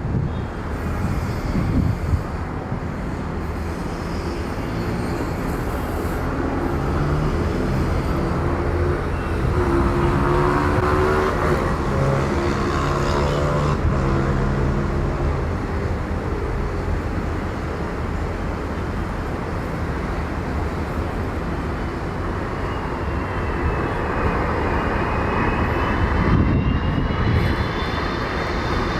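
Jet airliner engines running, a steady rumble with pitched engine tones in the middle stretch; a high, wavering whine comes in over the last few seconds.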